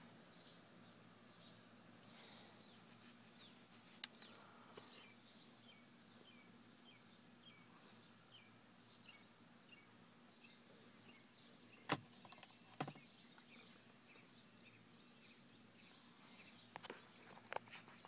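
Faint birdsong outside: a steady run of short high chirps, about two a second, broken by a few sharp clicks about four seconds in, twice near the middle and again near the end.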